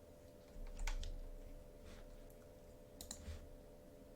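A few separate keystrokes on a computer keyboard, spaced about a second apart, over a faint steady hum.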